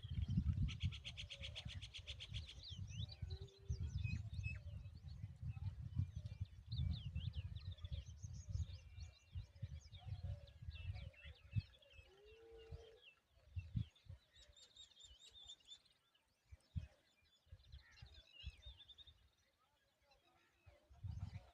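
Small birds chirping and calling in many short, high notes, with a fast rattling trill a second or two in. A low rumble runs under the first half and fades later.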